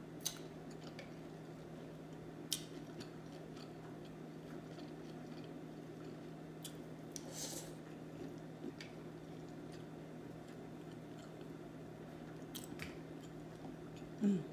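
A person eating seafood boil with her fingers: sparse wet mouth clicks and smacks of chewing, with a short noisy burst about halfway and a louder one near the end, over a steady low hum.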